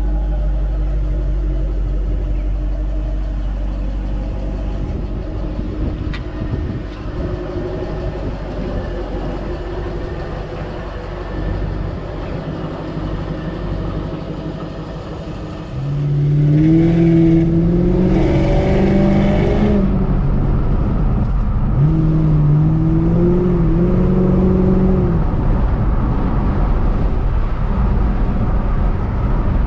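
A supercharged 2006 Ford Mustang GT's 4.6-litre V8 is heard from on board: it runs steadily at first, then about halfway through gets suddenly louder under hard acceleration, its pitch climbing in steps. It eases off briefly, climbs again, then settles to a steady drone.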